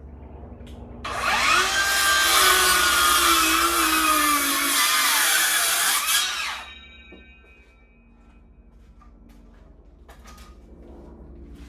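An electric power tool working into timber: it runs loud for about five and a half seconds starting about a second in, its motor pitch sagging and wavering under load, then stops. A few light knocks follow.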